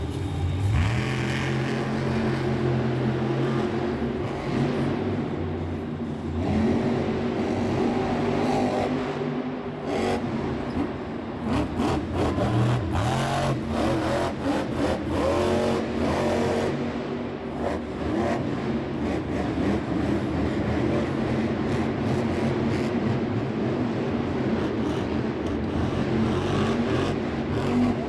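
Monster truck engine running and revving, its pitch rising and falling again and again, with scattered sharp knocks in the middle stretch.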